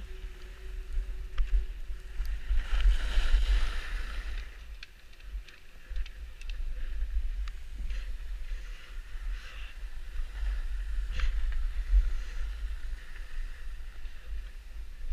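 Wind buffeting the microphone, with a rushing hiss for about two seconds near the start and scattered light clicks.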